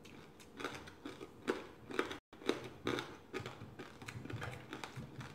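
Close-miked chewing and crunching of crispy fried food, with irregular sharp crunches and mouth clicks. The sound cuts out briefly about two seconds in.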